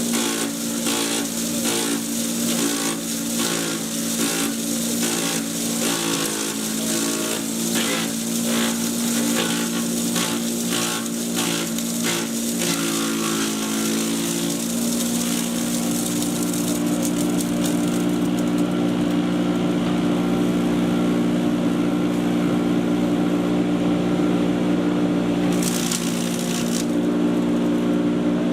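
Patriot 1.5-HP electric chipper shredder running with a steady hum, with sharp cracks about once a second for roughly the first half as material is chewed through the cutter. In the second half it runs steadily with few cracks, and there is a short hiss near the end.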